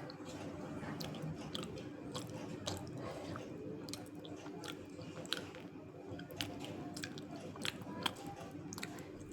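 Close-up chewing of crunchy edible clay, with many irregular small sharp crackles as the pieces break and soften in the mouth.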